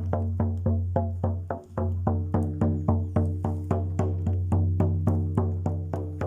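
A drum beaten in a steady, even rhythm, about three to four strokes a second, over a low sustained ringing tone.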